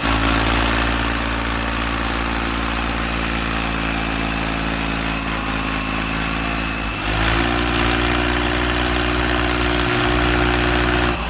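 An engine running steadily at idle, its note shifting slightly higher about seven seconds in.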